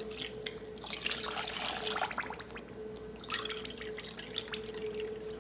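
Water being poured out, two cups of it, in two spells of splashing and trickling: the first lasts about two seconds, then a shorter one comes a little after three seconds in. A steady faint hum runs underneath.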